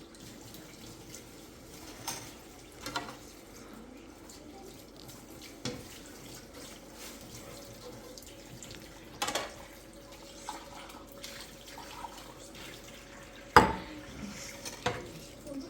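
Water running steadily, with a few sharp clinks and knocks scattered through it; the loudest knock comes near the end.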